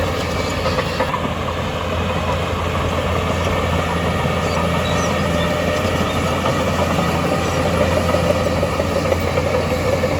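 Heavy diesel machinery engine running steadily with a constant low hum.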